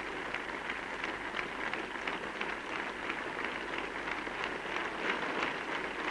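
Large cricket crowd applauding, a steady patter of many hands clapping. It is a great reception for a bowler coming off the field, heard through an old, hissy broadcast recording.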